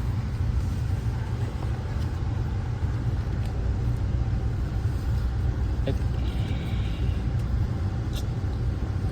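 Steady low rumble of an Amtrak passenger train running, heard from inside the car, with a few faint clicks.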